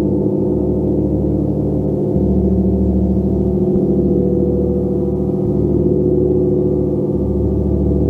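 A gong played continuously in a sound bath: a dense wash of sustained, overlapping tones, kept swelling by soft repeated strokes about every second and a half.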